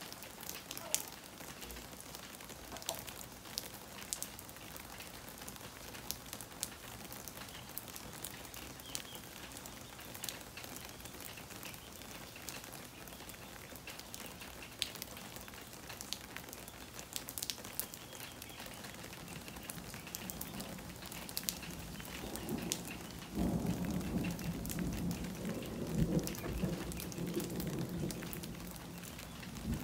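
Steady rain falling, with individual drops ticking close by on a wet surface. About three quarters of the way in, a low rumble of thunder rolls in and lasts several seconds.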